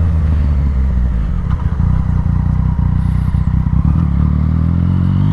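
Yamaha motorcycle engine running while riding, its pitch steady, turning rough and crackly for a couple of seconds in the middle.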